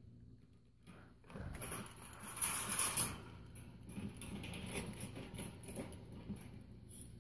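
Rustling and light knocking as things are handled and moved by hand, loudest about two to three seconds in and then softer scattered clicks.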